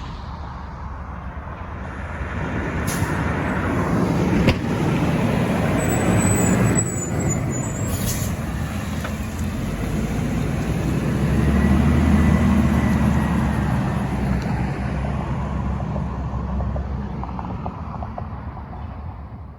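A garbage truck's diesel engine running as the truck drives past. It grows louder to a peak about two-thirds of the way through and then fades, with a few brief sharp sounds in the first half.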